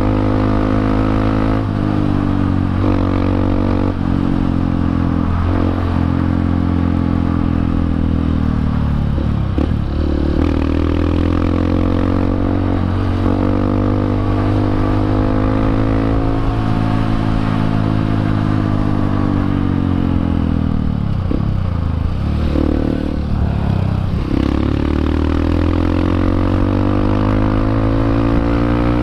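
Honda CRF150L's single-cylinder four-stroke engine running through an aftermarket Norifumi exhaust while riding, the revs rising and falling with throttle and gear changes. The revs drop off sharply twice, about a third of the way and two thirds of the way in, then climb again.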